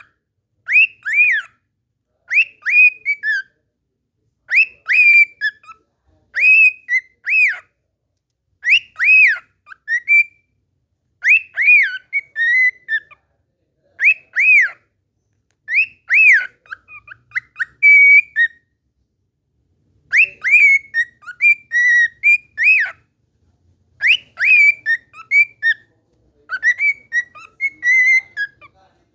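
Cockatiel singing, repeating one short whistled tune over and over in phrases of arching, rising-and-falling notes about every two seconds, with brief pauses between.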